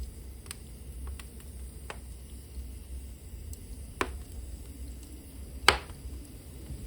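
Burning wood crackling in a fireplace: scattered sharp pops and ticks over a low rumble of the fire, with a sharp pop about four seconds in and a louder one near six seconds.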